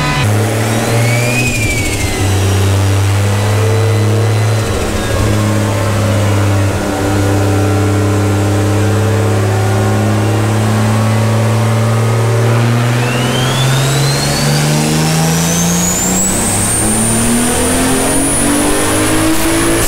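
Turbocharged car engine run on a chassis dyno: it holds steady at low revs, then about two-thirds of the way through goes to full throttle and climbs steadily through the rev range, with a high whine rising along with it.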